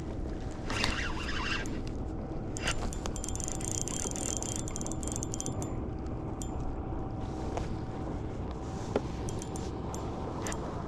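Steady wind and water noise on a kayak, with a faint steady hum. Scattered light clicks run through it, with a brief high rattling a few seconds in.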